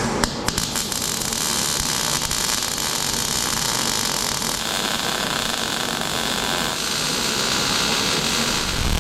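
Wire-feed arc welding on steel: a loud, steady hiss, with a few sharp clicks as the arc strikes.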